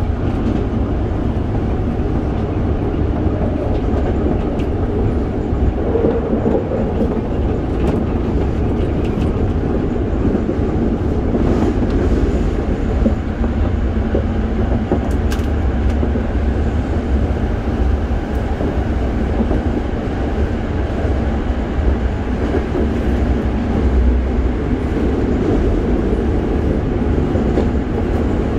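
Toei 5300 series electric train running at speed, heard from inside the car: a steady rumble of wheels on rails and car body, with the train entering a tunnel partway through.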